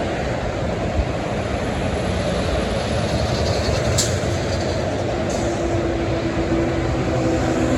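Steady rumble and tyre noise of heavy highway traffic as trucks pass, with a sharp click about four seconds in and a steady hum joining in the second half.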